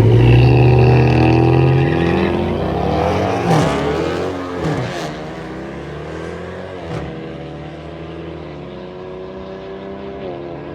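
Drag-racing cars launching: engines held at high revs for about two seconds, then climbing in pitch through several gear changes and fading as they pull away down the strip.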